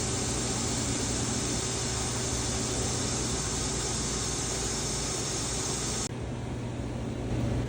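Honda Civic engine running steadily through a custom stainless exhaust, a constant low hum under a broad hiss; the sound changes abruptly about six seconds in, the hiss dropping away.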